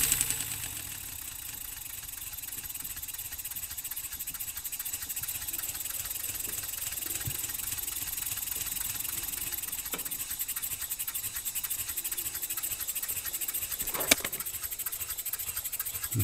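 A small six-cylinder radial model steam engine running on compressed air, ticking fast and evenly as it clicks over. It gets much quieter right at the start, then slowly grows louder, with one sharp click about 14 seconds in.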